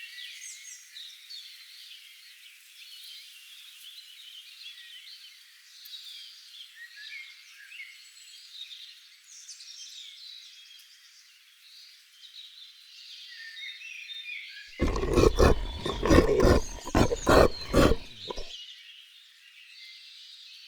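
Outdoor chorus of birds and insects chirping steadily. Near the end a much louder, rough, pulsing sound cuts in for about three and a half seconds, then stops.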